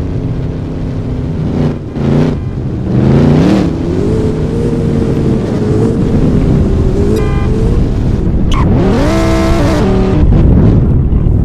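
Car engines revving and accelerating: the pitch climbs sharply about two and three seconds in, holds steady for a few seconds, then climbs again near the end.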